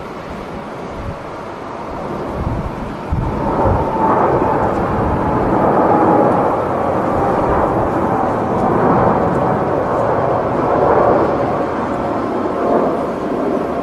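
Jet airliner's engines growing loud as the plane passes close by. The noise swells over the first few seconds and then holds, and gusts of wind buffet the microphone about three seconds in.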